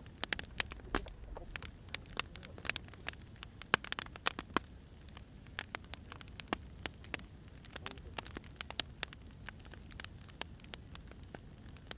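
Firewood burning: irregular sharp crackles and pops, several a second, over a low steady rumble of the fire.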